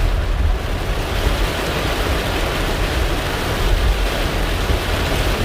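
Heavy rain hitting a moving car, heard from inside the cabin as a loud, steady hiss, with a low rumble of the car and wet road underneath.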